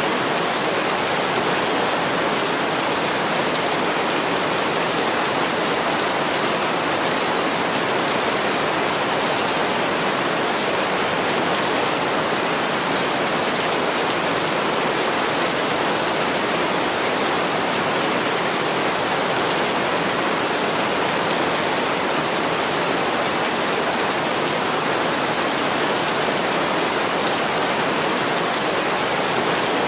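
Heavy rain pouring steadily on a window: a dense, even hiss that does not change.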